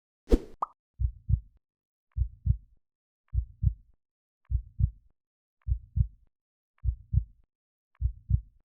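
A sharp hit with a brief high tone right after it, then a heartbeat sound effect: low double thumps (lub-dub) repeating steadily a little under once a second, seven beats in all.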